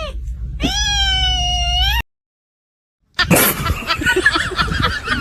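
A cat meowing: the end of one long, drawn-out meow, then a second long meow of about a second and a half that rises and then sags slightly in pitch. The sound cuts off suddenly about two seconds in, and after a second of silence a busier jumble of other sounds begins.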